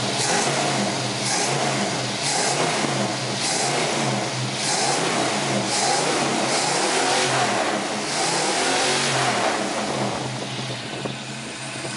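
Carbureted Ford 5.0-litre V8 through headers, its throttle blipped by hand in repeated revs about once a second, then easing back toward idle near the end. It runs with no unusual noises, though with vacuum lines unhooked the owner suspects a slight vacuum leak.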